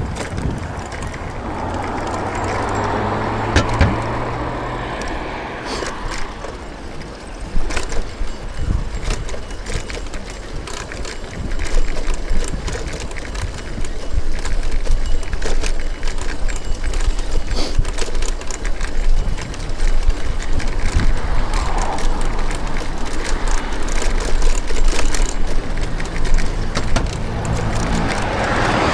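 City street sound heard from a moving bicycle: steady road and wind noise with small rattles, and motor vehicles passing close, once a couple of seconds in and again near the end.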